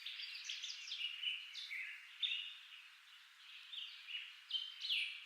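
Faint birdsong: several small birds chirping in short, high, overlapping calls.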